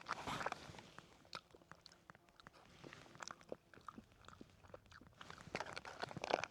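A person chewing a mouthful of rehydrated chili rice close to the microphone: soft wet mouth noises and small clicks, busier near the end. The rice is not fully softened.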